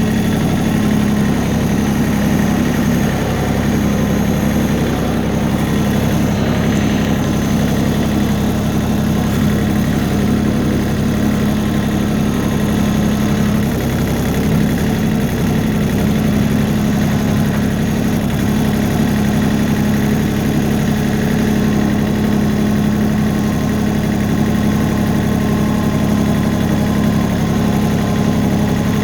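Tractor engine running at a steady speed, a constant drone that holds the same pitch throughout.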